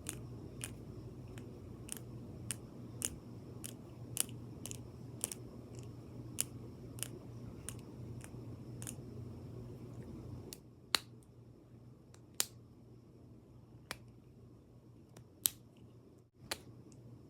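Light, sharp taps of the kind used in ASMR, about two a second for roughly ten seconds, then only a few scattered taps. A low steady hum underneath stops about ten seconds in.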